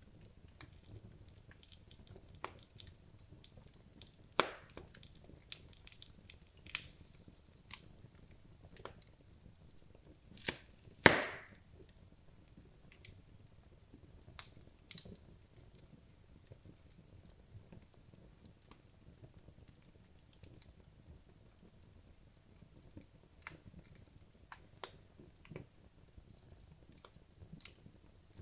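Wood logs burning in a fireplace, crackling with scattered sharp pops and snaps over a soft low hiss; the loudest snap comes about eleven seconds in, with fewer, fainter pops in the middle stretch.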